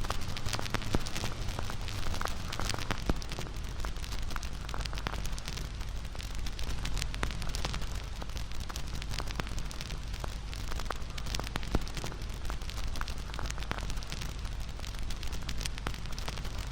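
Wood fire burning, with dense crackling and popping over a steady low roar of the flames.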